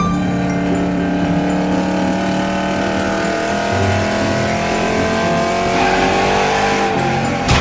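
Car engine running under acceleration, its pitch slowly rising and falling, with music underneath.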